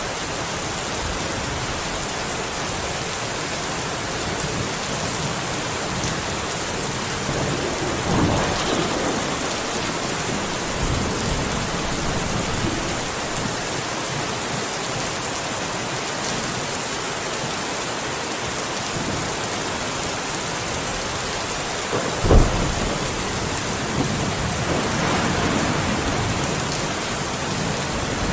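Steady, heavy rain falling, with thunder: a rumble about a third of the way in, a sharp, loud thunderclap about three quarters through, then a longer rumble.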